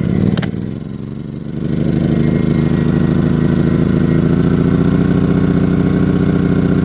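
Generac iQ2000 inverter generator's small single-cylinder four-stroke engine starting up, sagging briefly about a second in, then picking up and running steadily. The generator has been cutting off, which the owner takes for a gas problem.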